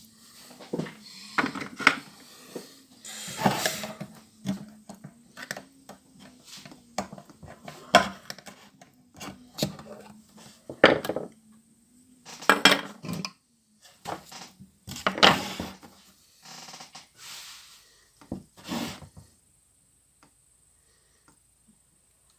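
Irregular metallic clanks and knocks of tools and metal parts being handled and set down, a dozen or so sharp strikes at uneven intervals, stopping about three quarters of the way through.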